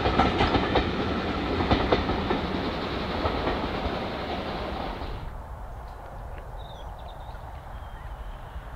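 Railway coaches of a steam-hauled train rolling past, their wheels clicking over the rail joints, then dropping away suddenly about five seconds in to a low rumble.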